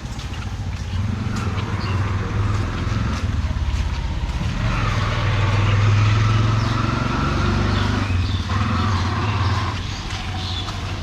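A motor vehicle's engine running as it passes close by, growing louder to a peak around the middle and easing off near the end.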